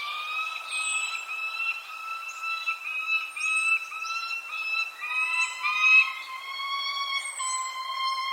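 Birds calling: a run of evenly repeated, whistle-like notes that drop slightly in pitch about five seconds in, with short high downward chirps every second or so.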